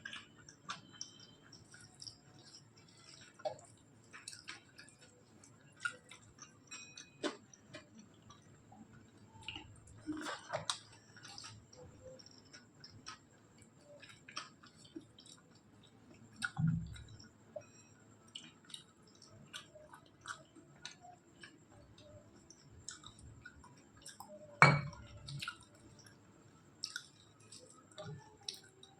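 Close-miked chewing and small mouth clicks of someone eating a rice meal. There is a soft thud a little past halfway and a sharp knock, the loudest sound, about three-quarters of the way through.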